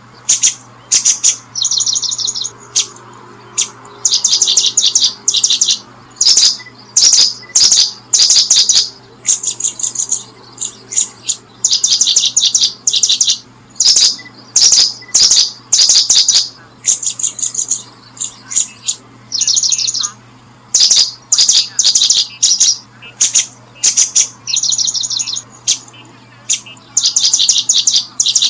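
Bird chirping close by: high, quick series of sharp chirps repeated over and over with short gaps, over a faint steady low hum.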